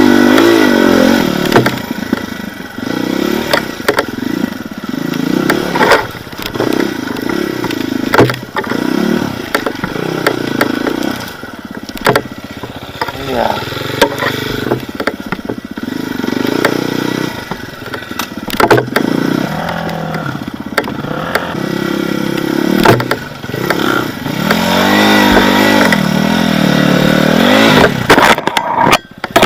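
Off-road motorcycle engine revving up and down in short bursts, with repeated knocks and clatter.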